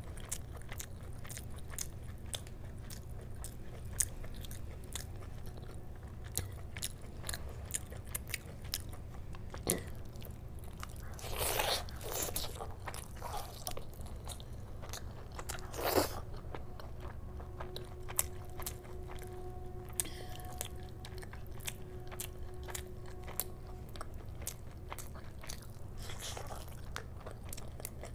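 Close-miked chewing and wet mouth clicks of a person eating chicken curry with rice, with a few louder crunches, the loudest about twelve and sixteen seconds in, over a steady low hum.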